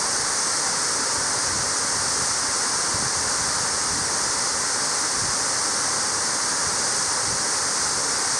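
Waterfall's steady rushing water: an even hiss, strongest in the high range, with no breaks.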